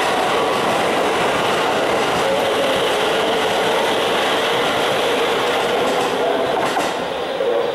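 Keisei 3000 series electric train running along the platform and away, a steady rumble of wheels on rail that eases after the last car clears about six seconds in.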